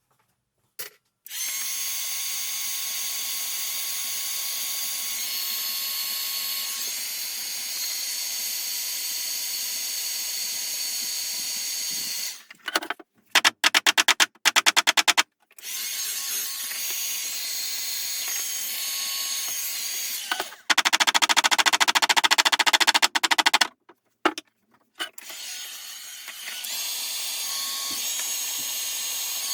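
Electric drill running in steady whining stretches, stopping and starting several times. Twice it gives way to a few seconds of very loud, fast rattling clicks, like a clutch slipping or an impact mechanism hammering.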